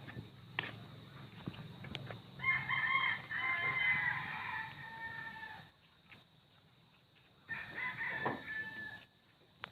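A rooster crowing: a long crow starting about two and a half seconds in, then a second, shorter crow near the end.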